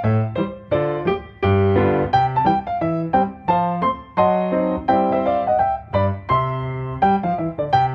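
Background music: solo piano playing a gentle melody over repeated chords at a steady, unhurried pace.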